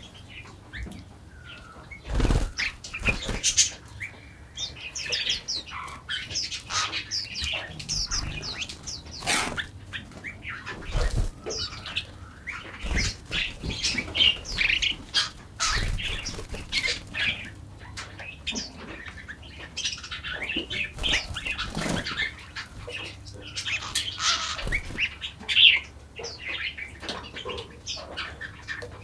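A chorus of small songbirds chirping and calling over one another, with frequent brief thumps scattered through it.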